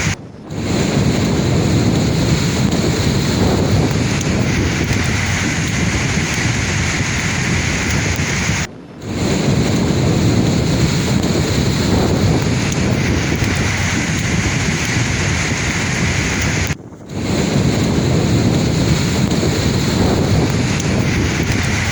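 Sea waves breaking on a shore: a loud, continuous wash of surf, heaviest in the low range. It drops out briefly three times, about every eight seconds.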